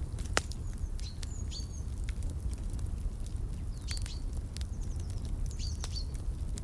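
Wood fire crackling over a steady low rumble, with scattered sharp pops, the loudest about half a second in. Small birds chirp a few short high calls in between.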